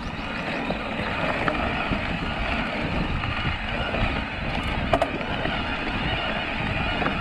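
Mountain bike rolling along a dirt trail: steady tyre rumble and wind buffeting on the camera microphone, with a sharp knock about five seconds in.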